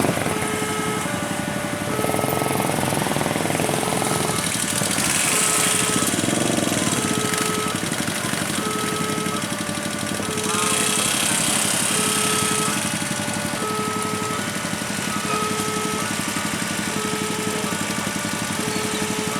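A railway level-crossing warning alarm sounding, a repeating electronic two-tone chime that alternates a lower and a higher note about every three quarters of a second. Under it is the steady running of idling vehicle engines in queued traffic.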